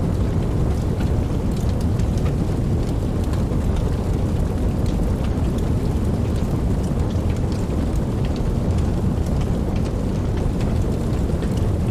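Steady rainfall, with scattered sharp drop ticks over a deep, even low rumble; no distinct thunderclap.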